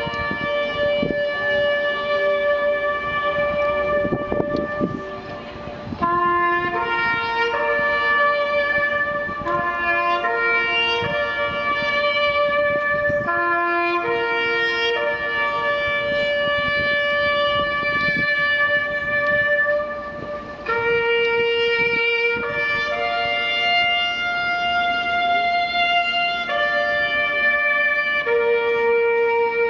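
Slow instrumental music played on wind or brass instruments: a melody of long held notes, pausing briefly about five seconds in and again around twenty seconds in.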